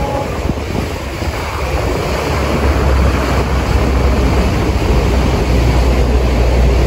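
Motorboat running on the water, a steady low rumble with rushing water and wind, getting louder about two and a half seconds in.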